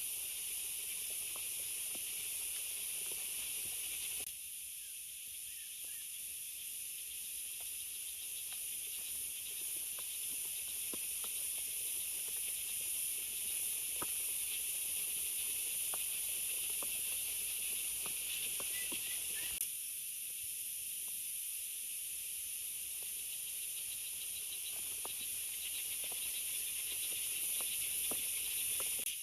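Heavy rain falling in a steady hiss, with scattered faint ticks of drops or small knocks. The hiss shifts abruptly about four seconds in and again near twenty seconds.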